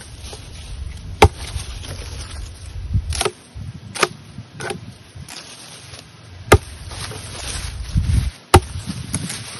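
Wood being chopped: about six sharp, irregularly spaced strikes, three of them much louder than the rest.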